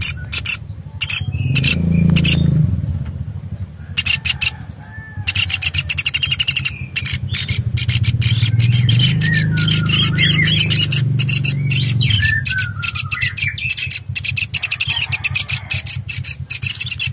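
Birds chirping and calling in quick, clicking bursts over a steady low hum that fades about twelve seconds in.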